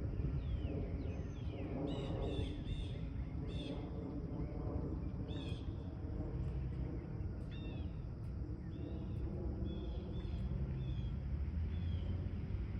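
Birds calling with short, high chirps repeated many times over a steady low rumble.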